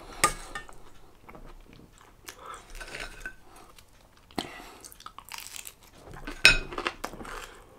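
A man chewing mouthfuls of curry and flatbread close to the microphone: wet mouth noises and small crunches, with a few sharper smacks, the loudest about six and a half seconds in.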